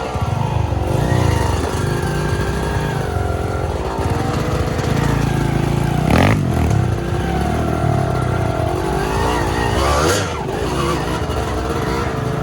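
Trail motorcycle engine revving up and down as the throttle is worked on and off over rough ground. There is a short sharp knock about six seconds in.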